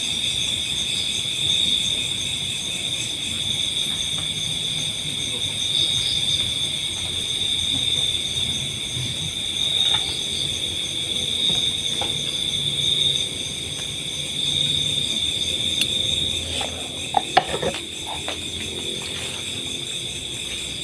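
Steady chorus of crickets and other insects: several shrill trills, each held at its own unchanging pitch, the strongest one high, with a few brief faint sounds near the end.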